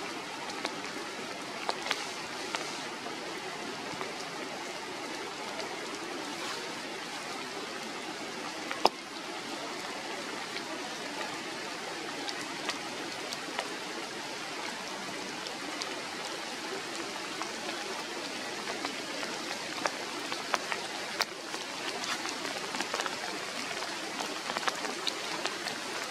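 Steady rain falling through tree foliage, an even hiss with scattered drips ticking on the leaves, and one sharp tap about nine seconds in.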